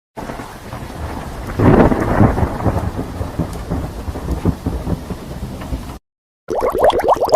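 Thunderstorm sound effect: steady rain with a loud clap of thunder rumbling about a second and a half in, then rain and low rumble carrying on until it cuts off abruptly about six seconds in.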